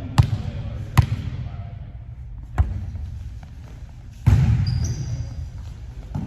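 A volleyball bounced on a hard gym floor, three separate bounces in the first few seconds, then a louder hit a little past the middle with echo from the hall after it, and a brief high squeak just after.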